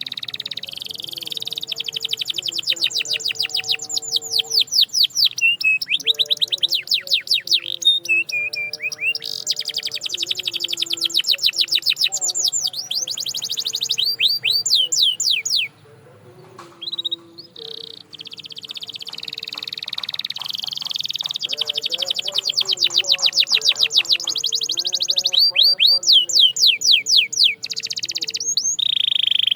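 Domestic canary singing long rolls of rapid trills, each run a fast series of repeated falling notes, pausing briefly about halfway through before starting again. Soft background music with held low notes runs underneath.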